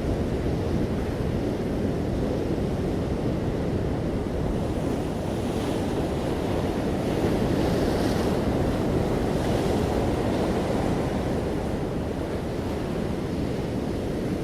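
Sea waves washing onto a shore, a steady low rumble of surf with a hissing wash that swells between about five and ten seconds in.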